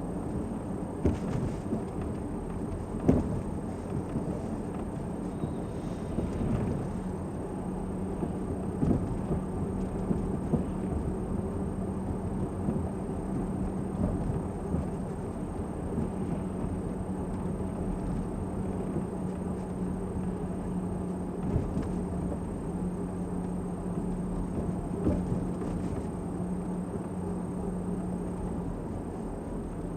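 A car driving, with a steady low road and engine rumble and a hum that holds steady for most of the stretch. A few short knocks from bumps come through.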